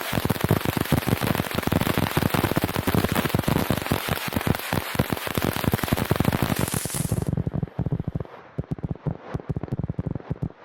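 Rapid barrage of firecracker bangs, dense and continuous for about seven seconds, then thinning to scattered separate pops.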